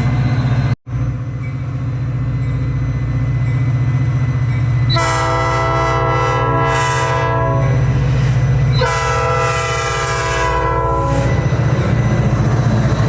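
Train horn sounding two long blasts, each about two seconds, the second starting a couple of seconds after the first ends. Under them runs the steady low rumble of the train.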